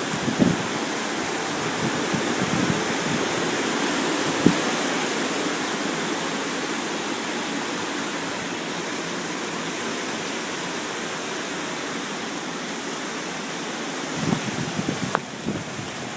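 Steady rushing hiss of hurricane wind and rain, with a few brief knocks and some gusty rumbling near the end.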